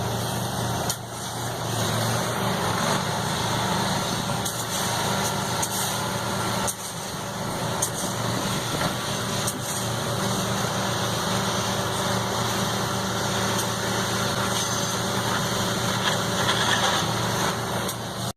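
An engine running steadily with a low hum, with a few short clicks over it.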